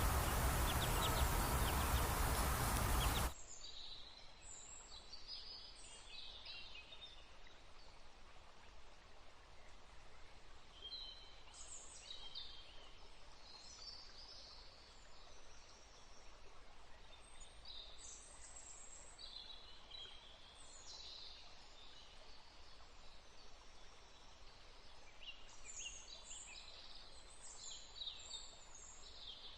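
A loud, noisy buzz that cuts off suddenly about three seconds in, followed by faint, scattered, high, short chirps of birds over a quiet background.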